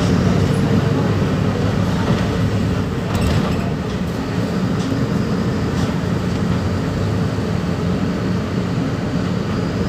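Diesel engine of a Mercedes-Benz OF-1721 BlueTec 5 bus running steadily with a low drone.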